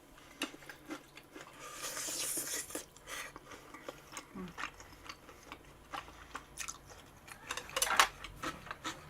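A person chewing and biting bunsik (Korean snack food) close to the microphone: many small sharp clicks of mouth and food, a longer rustling stretch about two seconds in, and a louder click near the end.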